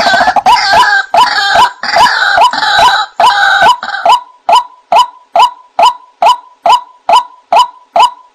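White-breasted waterhen (ruak-ruak) calling: a harsh croaking chorus for the first few seconds over a steady run of loud, repeated short "kwaak" notes, about two and a half a second, which carry on alone after that.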